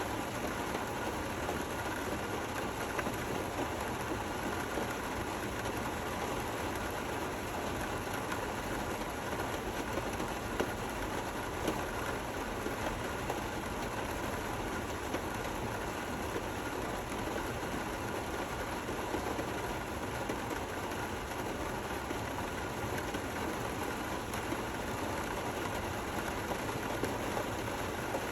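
Steady rain falling, an even hiss with a few slightly louder drops here and there.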